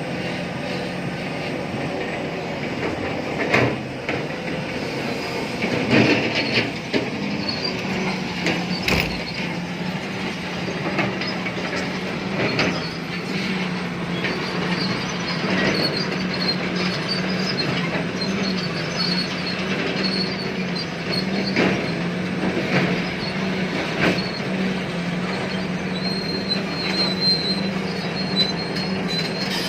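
Tata Hitachi Zaxis 870 LCH excavator at work: its engine runs with a steady hum while sharp metallic clanks and knocks come every few seconds, with high-pitched squealing over them.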